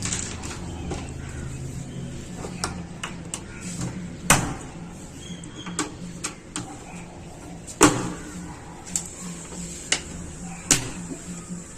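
Scattered sharp knocks and clicks of parts being handled and fitted on a washing machine, three of them louder, over a low steady hum.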